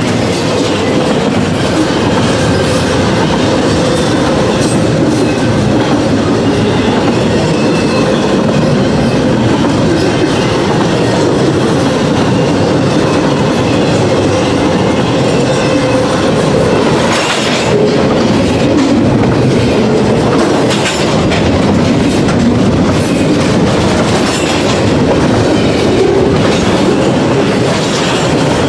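Passing double-stack container train of steel well cars: a steady loud rumble of wheels on the rails with clickety-clack from the wheels. Sharper clicks come from a little over halfway through.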